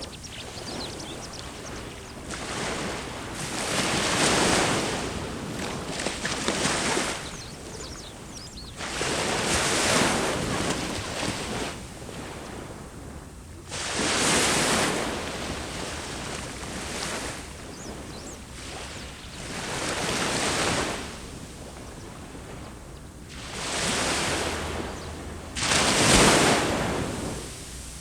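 Ocean waves breaking and washing up the shore, one surge of surf every few seconds, the loudest near the end.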